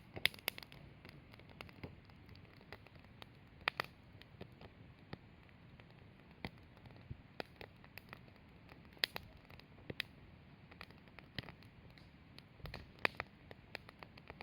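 Wood campfire crackling in a Snow Peak Takibi-dai L fire pit: irregular sharp pops and snaps over a faint steady hiss, with a few louder pops scattered through.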